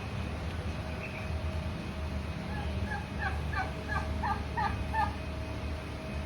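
Peafowl calling in a quick run of short notes, about three a second for roughly three seconds, starting a couple of seconds in, over a steady low hum.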